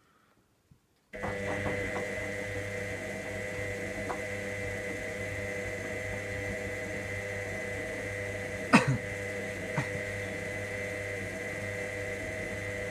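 Electra AWF683 washing machine's drum motor starting suddenly about a second in and running steadily with a hum and a whine as the drum turns the wash. One sharp knock comes about two-thirds of the way through, and the run cuts off at the end.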